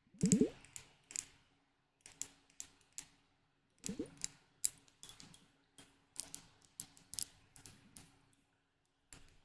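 Irregular tapping and clicking on small hard objects, a few sharp taps a second. A short rising squeak comes just after the start and again about four seconds in.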